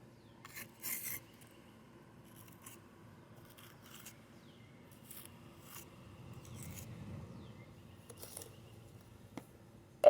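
Short scraping strokes of a hand tool, about six, spread out with pauses between them, and a sharp click near the end.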